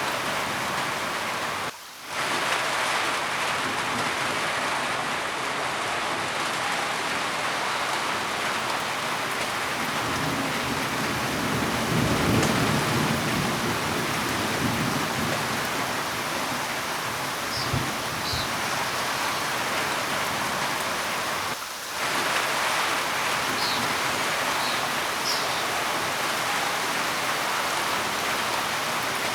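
Steady heavy rain with a low roll of thunder rumbling up about a third of the way in and fading away. The rain cuts out for a split second twice, near the start and about three quarters through.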